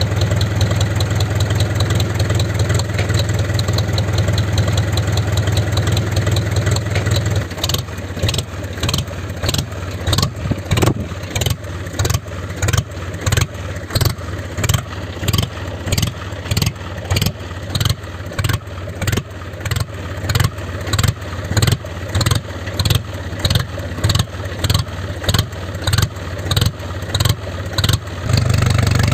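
Engine-like running of a DIY mini tractor: a steady low hum, which from about 7 s in turns into a regular pulsing of roughly one and a half beats a second, then settles back into the steady hum near the end.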